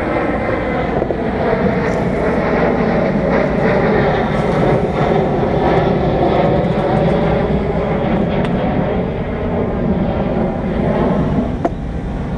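A loud, steady engine-like drone with a pitched hum that wavers slightly, running unbroken.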